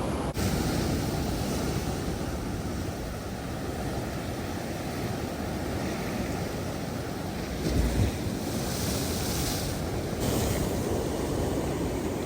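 Surf washing against a rocky shore under strong wind buffeting the microphone, with a louder wave surge about eight seconds in.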